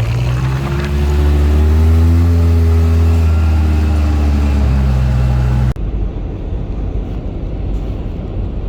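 Motor vehicle engine running, its pitch rising slightly and falling back. About six seconds in it cuts off abruptly, and a steadier rumble of road noise takes over.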